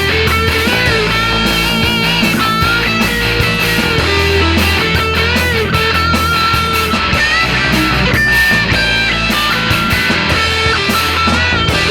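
Live rock band playing an instrumental passage with electric guitars, bass and drums.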